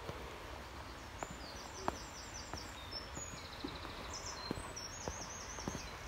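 A small songbird singing runs of quick, repeated high notes, over footsteps going down outdoor stone steps, with a steady background hiss.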